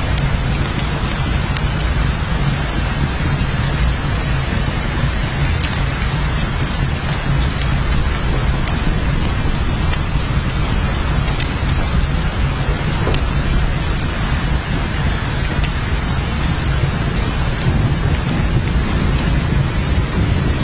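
Steady heavy rain falling, with a constant low rumble underneath and many scattered sharp drop ticks.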